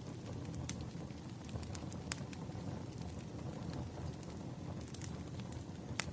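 Campfire crackling: a steady low rumble of burning wood with sharp pops and snaps at irregular intervals, the loudest about two seconds in and just before the end.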